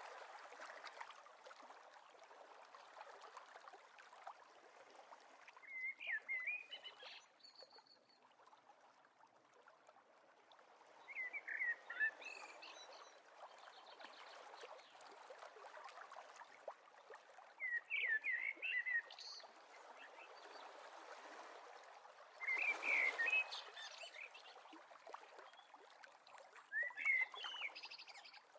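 A songbird repeating a short, twittering phrase about every five to six seconds, five times in all, over a steady hiss of running water.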